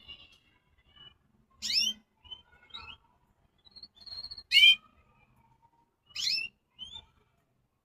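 Caged birds chirping: a run of short, separate calls, three of them loud sweeping chirps about a second and a half to two seconds apart, with softer chirps between.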